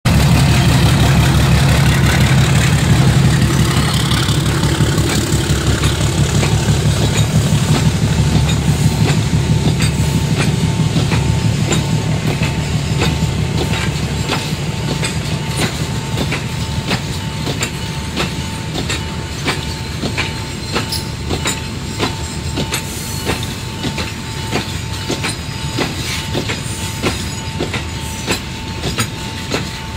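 A goods train of covered limestone hopper wagons rolling past. A heavy low rumble fades over the first half, giving way to a steady clickety-clack of wheels over rail joints, with a steady high tone from about halfway.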